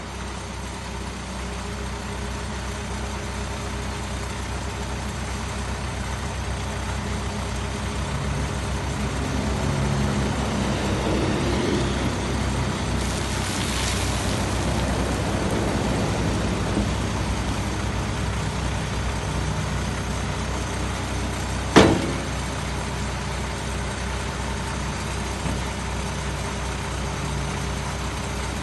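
Case 590 Super M backhoe's diesel engine running steadily, swelling in loudness and working harder through the middle before settling back. A short hiss comes about halfway through, and one sharp knock stands out near the three-quarter mark.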